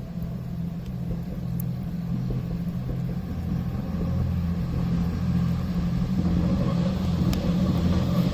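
A low engine rumble with a steady hum, growing louder over the few seconds, with a few faint crackles from a wood campfire.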